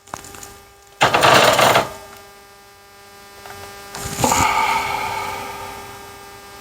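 Metal handling noises from swapping a soldering iron tip: a sharp click, a scraping rattle about a second in, then a metallic clink about four seconds in that rings briefly, over a steady low hum.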